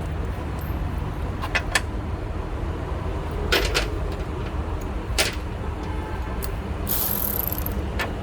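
Scattered metallic clicks and clinks of hand tools on the cross-member bolts, with a short rattling burst near the end, over a steady low rumble of outdoor background.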